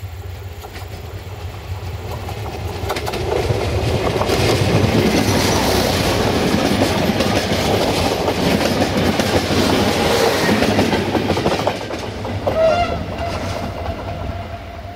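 A passenger train passing close by. Its wheels clatter over the rail joints, building as it approaches, loudest as the coaches go past, then easing off. A short high tone sounds near the end as the last cars pass.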